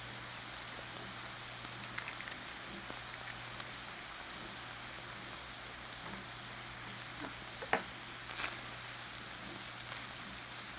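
Faint chewing of a bulgogi lettuce wrap: small crunches and mouth sounds over a steady hiss, with one sharper click about three-quarters of the way through.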